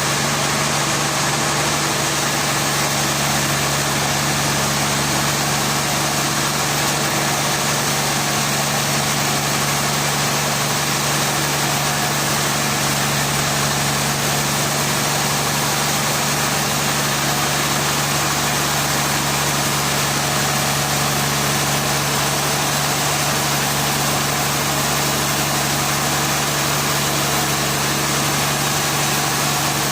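An engine running steadily at idle: a constant hum with a strong low tone that does not change.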